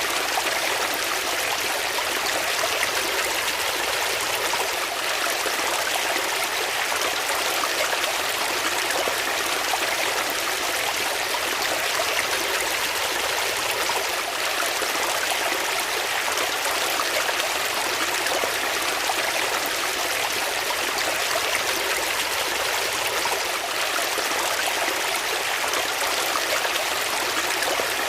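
Water flowing steadily, a continuous even rush and trickle like a small stream.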